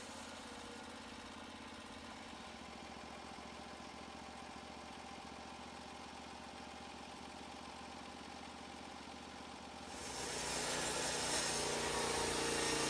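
Portable band sawmill's small gasoline engine running steadily, getting louder and fuller about ten seconds in.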